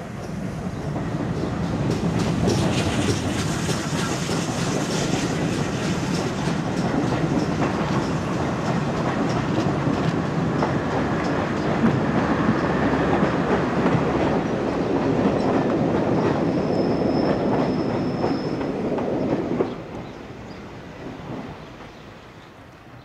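Steam-hauled train of passenger carriages rolling past close by, its wheels clattering over the rail joints. A thin high wheel squeal sounds for about two seconds late on. The noise drops off sharply a few seconds before the end.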